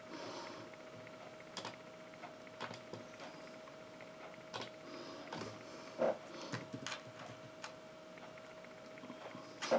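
A faint steady hum with scattered light clicks and taps, one louder tap about six seconds in and another near the end.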